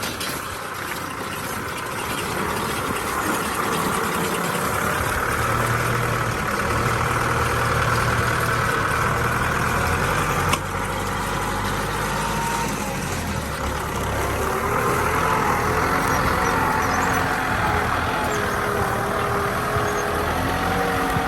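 Kubota tractor's diesel engine running. It grows louder over the first few seconds, there is one sharp click about halfway through, and the engine note shifts up and down in the second half.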